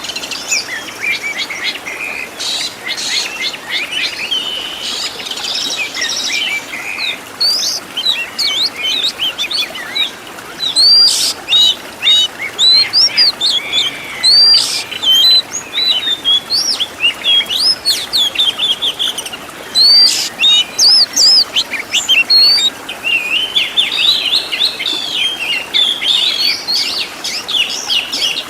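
Oriental magpie-robin singing a continuous, rapid, varied song of whistles, chirps and trills, with a few sharp clicking notes among the phrases.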